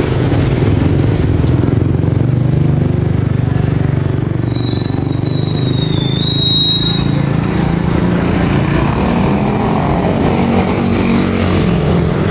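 Motorcycle engine running steadily while riding in city traffic, a continuous low rumble. About halfway through, a high whistling tone sounds for a couple of seconds.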